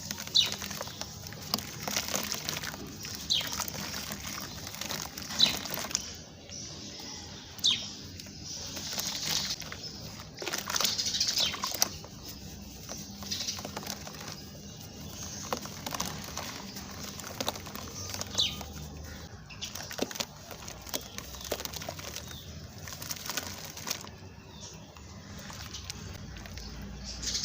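Sand-cement chunks being crushed and crumbling, in irregular crunchy, gritty bursts.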